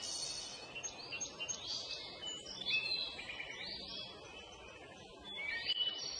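Birds singing: a run of short chirping and whistled phrases, one after another, over a faint steady background hiss.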